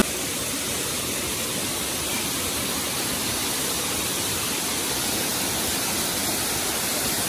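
Waterfall's falling water rushing in a steady, unbroken roar.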